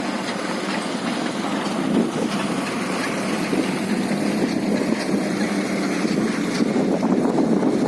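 Mitsubishi dump truck driving past on a rough road, its diesel engine running steadily under the noise of tyres and body, growing slightly louder towards the end.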